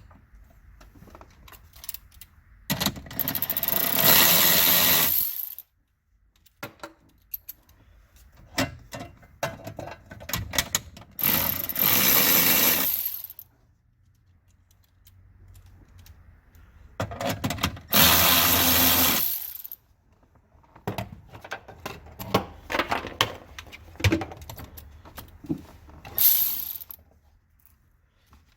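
Power drill running three times in runs of about two and a half seconds, driving fasteners, with a shorter run near the end. Small clicks and clinks of parts being handled come in between.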